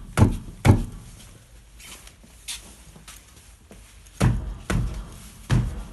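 Dull knocks from a rear brake caliper moving on its guide pins, two near the start and three near the end. The guide pins are new; the owner suspects the pin bores in the caliper bracket have worn oversize.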